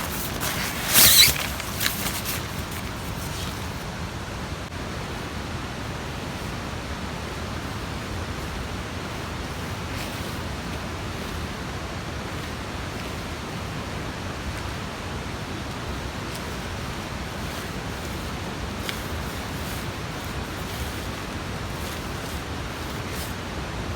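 Steady, even rushing noise of the outdoors, with a brief loud rustle about a second in and a few faint clicks.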